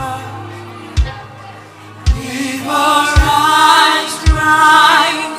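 Slow worship music: a deep drum beat about once a second over a held low keyboard chord, joined about halfway by voices singing long held notes.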